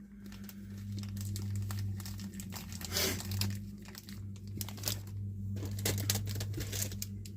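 Plastic parts bags from a model kit crinkling and rustling as they are handled, irregular crackling throughout, over a steady low electrical hum.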